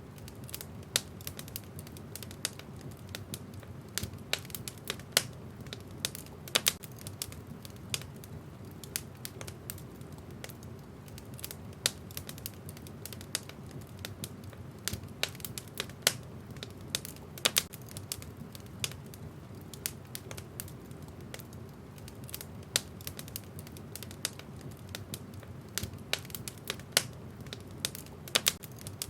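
Wood fire burning in a fireplace, with a steady low rush of flames and frequent irregular crackles and pops from the burning logs.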